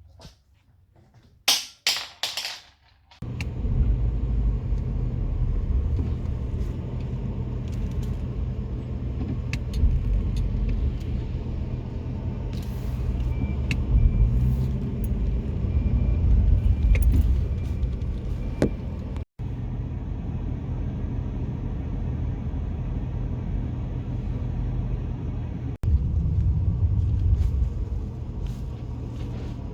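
A few sharp clicks, then a steady low vehicle rumble that starts abruptly about three seconds in and runs on, like a car's engine and road noise heard from inside.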